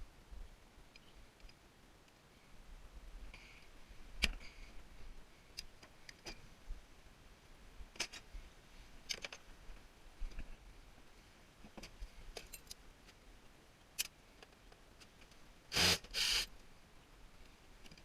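Scattered sharp clicks, taps and clinks of hand tools and small metal parts being handled while a tankless water heater is taken apart. Two louder, rougher scrapes or knocks come close together near the end.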